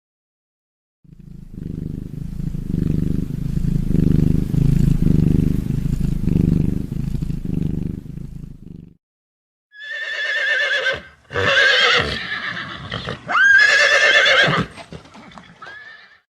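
A horse whinnying three times in quick succession, each call high and quavering, coming in about ten seconds in. Before it, a low pulsing rumble runs for about eight seconds.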